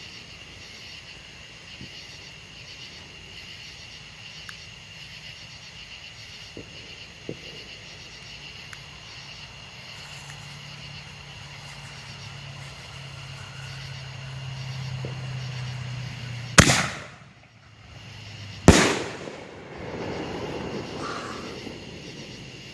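Two loud firework bangs about two seconds apart, each sudden with a short fading tail, over a steady high chirring of insects. A low hum swells in the seconds before the first bang.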